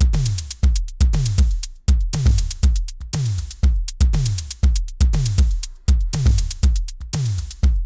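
A programmed drum-machine beat playing back from the Soundtrap music app: a deep kick drum whose pitch drops quickly on each hit, under steady hi-hat-like ticks. Some kicks hit softer than others because their velocities have been lowered.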